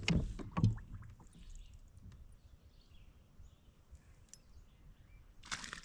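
Fish being played in beside a kayak on an ultralight rod. A few knocks and clicks come near the start, then a quiet stretch with faint bird chirps, and near the end a brief splashing rush as the fish comes to the surface.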